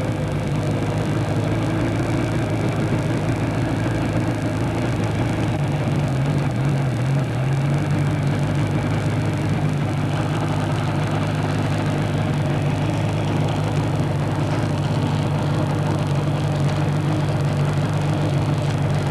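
Motorcycle engine running steadily under way, with wind and road noise; its pitch dips briefly about six seconds in and climbs back a couple of seconds later.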